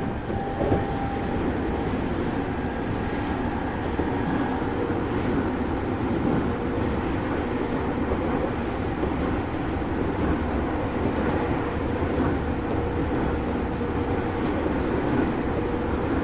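Running sound of a 205 series 5000 subseries electric train with a Toyo Denki IGBT VVVF inverter drive, heard from inside the car: a steady rumble of wheels on rail with a faint steady whine.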